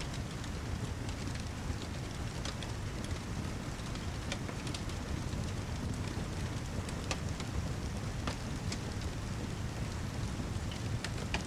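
Rain-and-fireplace ambience: a steady hiss of heavy rain over a low rumble, with scattered sharp ticks and crackles.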